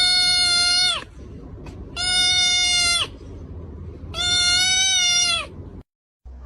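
A domestic cat giving three long, drawn-out meows at an even pitch, each about a second long and about two seconds apart, with a low rumble underneath.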